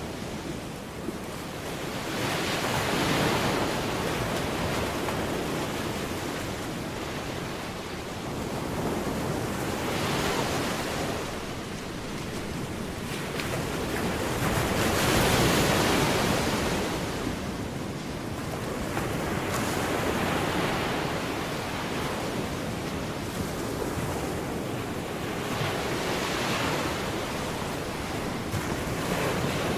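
Ocean surf: waves washing in and out, the rush rising and falling in slow swells every five or six seconds.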